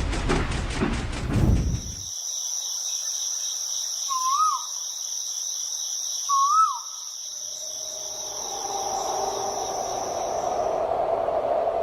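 A rhythmic clatter stops about two seconds in. Steady, high cricket chirring follows, with two short chirping calls a couple of seconds apart. Near the end a mid-pitched tone swells up under it.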